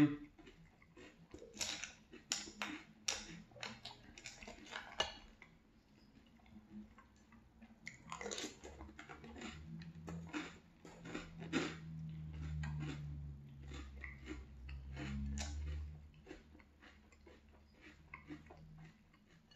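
A person chewing a mouthful of French Toast Crunch cereal in milk, close to the microphone: many short, crisp crunches in quick succession, in two spells, with a low hum through the middle stretch.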